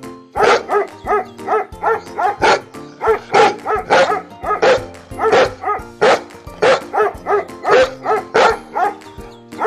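Dog barking over and over in quick succession, about three barks a second, over background music.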